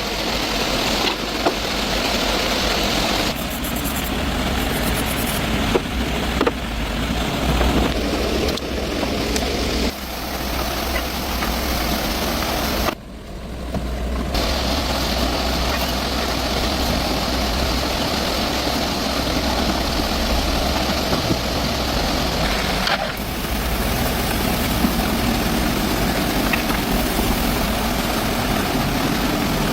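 A motor vehicle engine running steadily with a deep rumble, broken by abrupt cuts, with a brief dip about halfway through.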